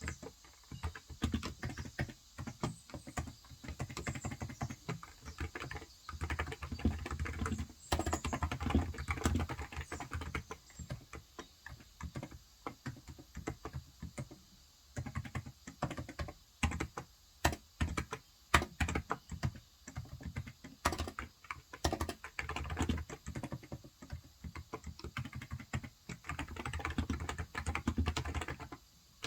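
Typing on a Cox Endeavor electro-capacitive keyboard with 35 g switches: quick runs of keystrokes broken by short pauses. Faint bird chirps sound now and then behind it.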